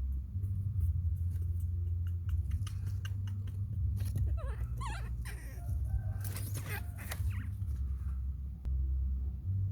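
Baby monkey giving short high-pitched squeaks and whimpering cries, thickest about halfway through, over a steady low hum.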